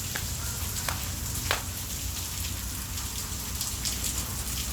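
Steady heavy rain falling, with a few sharper drop taps in the first second and a half, the loudest about one and a half seconds in.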